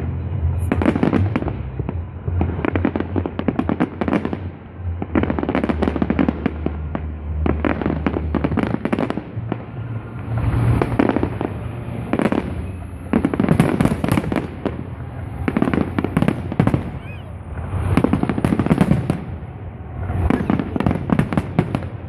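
Large professional fireworks display: a dense barrage of shell bursts and crackling stars, coming in surges every second or two.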